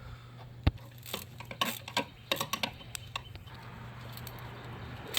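Scattered clicks and knocks of hand tools and metal parts as a bolt and the dipstick are fastened in an engine bay, the sharpest a little under a second in, then a steady rustling from about three and a half seconds in.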